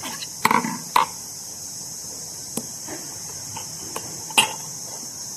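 Sharp knocks and clicks of a battery being opened up by hand. The loudest come about half a second, one second and four and a half seconds in, with fainter ticks between.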